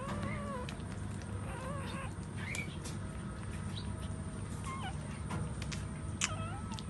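Puppies whimpering and squealing in short, wavering high-pitched cries, several in a row, over a steady low background hum and small clicks.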